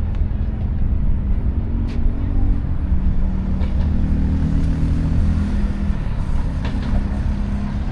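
Steady low rumble of motor traffic with an engine hum, and a few faint clicks over it.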